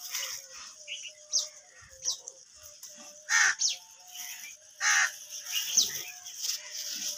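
Birds calling: two loud, harsh calls about three and a half and five seconds in, with several short, high, falling chirps scattered around them.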